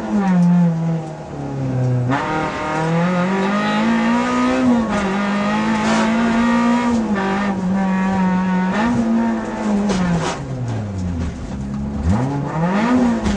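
Renault Clio rally car's engine heard from inside the cabin at stage pace, the revs climbing and dropping again and again through the gear changes. Around ten seconds in the revs fall away for a long stretch under braking, then climb sharply once more.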